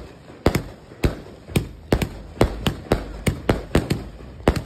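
Fireworks going off overhead: a rapid, uneven string of sharp bangs and pops, two or three a second.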